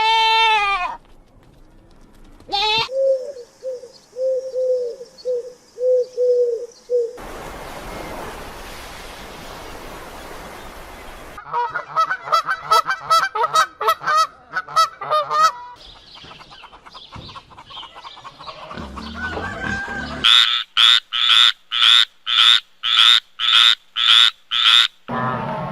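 A series of different animal calls, one after another: a bleat, a steady run of low repeated calls, a few seconds of hiss, rapid chattering calls, then about a dozen loud, evenly spaced calls, roughly two a second.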